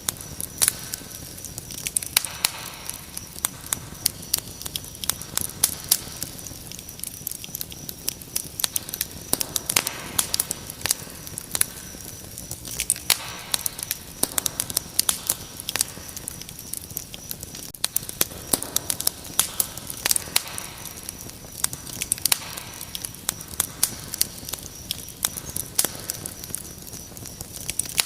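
Wood fire crackling, with frequent sharp pops and snaps, over a steady high-pitched cricket trill.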